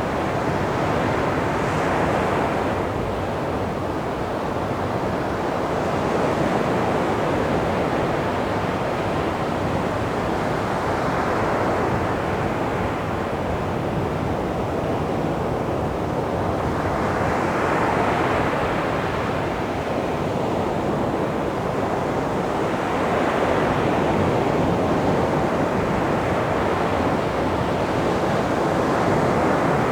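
Calm sea waves breaking on a beach: a continuous surf hiss that swells and falls away every several seconds as each wave comes in.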